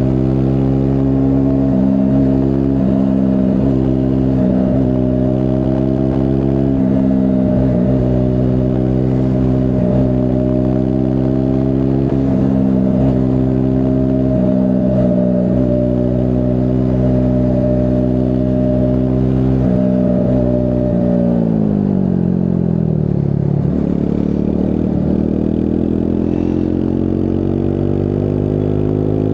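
Triumph Scrambler 400 X's single-cylinder engine under way at a steady cruise; about 21 seconds in the revs fall away over a few seconds as the throttle is rolled off, then climb again as the bike accelerates.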